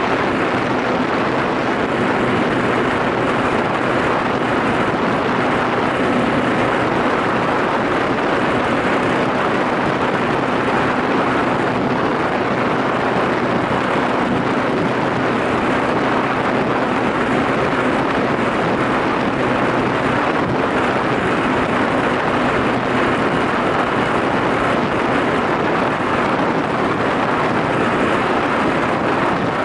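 Yamaha SRX400's single-cylinder four-stroke engine running at a steady cruising speed, mixed with heavy wind rush on the microphone. It holds a constant pitch and level throughout.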